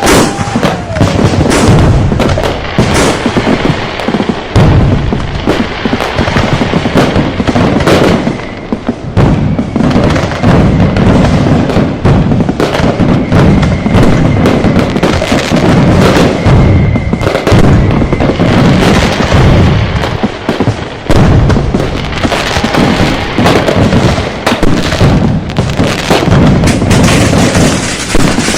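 Dense, unbroken barrage of firecracker and fireworks blasts, the bangs overlapping with no let-up. A faint high whistling tone runs through the middle of the barrage.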